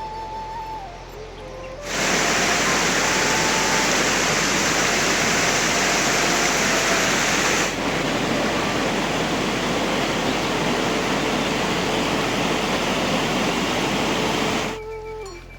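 Loud, steady rush of water that starts abruptly about two seconds in, steps slightly quieter about halfway through, and stops abruptly a second before the end.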